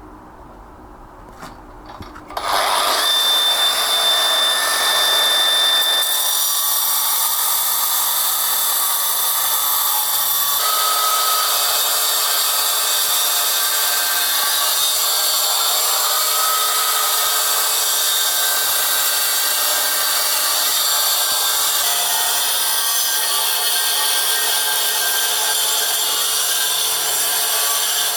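Power tool working stone, starting about two seconds in after a short quiet and then running steadily with a high whine over a coarse grinding noise.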